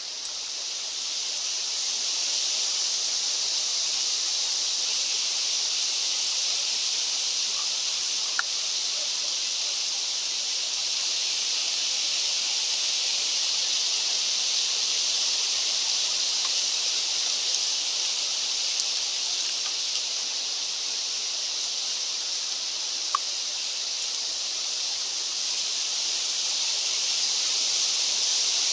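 Wind blowing steadily on the mountain, an even high hiss that swells over the first couple of seconds and then holds, with a couple of faint clicks.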